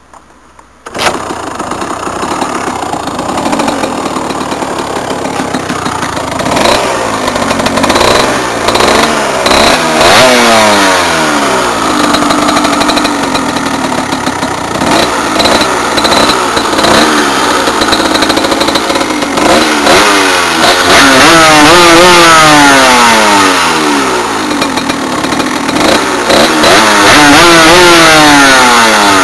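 Tuned Aprilia RX50's two-stroke 50cc engine running, cutting in suddenly about a second in and then revved up and let back down again and again, the revs climbing and falling.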